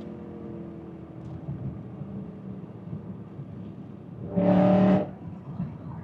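BMW E92 M3's S65 V8 with a titanium exhaust, heard from inside the cabin: running at low revs with the revs falling off, then a short, loud burst of throttle about four seconds in.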